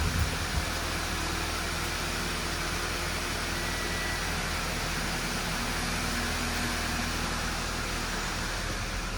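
2012 Audi A5's 2.0-litre four-cylinder engine idling steadily, with a couple of light knocks just after the start.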